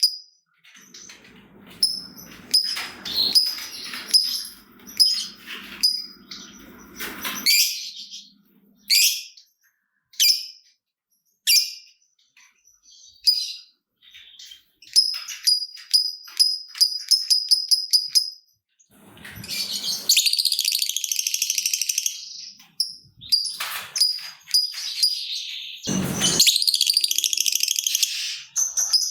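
Lovebirds calling: rapid trains of high ticking chirps, single sharp chirps, and a long dense high chatter lasting about two seconds, the drawn-out 'ngekek' call. One louder, heavier call stands out near the end.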